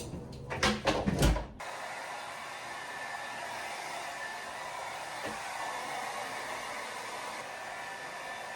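Hand-held hair dryer blowing steadily, after a few knocks and handling sounds in the first second and a half as it is picked up and switched on.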